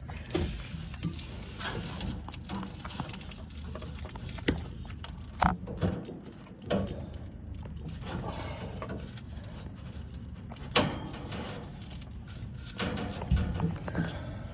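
Scattered sharp clicks and knocks of hand work on a heat pump compressor's wiring, over a steady low background noise.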